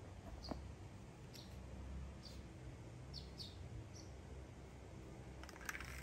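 Faint, short high chirps of small birds, repeating about once a second. Near the end come a few soft clicks of silicone toy blocks being handled.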